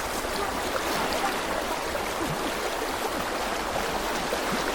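Fast-flowing stream water rushing steadily, a strong current.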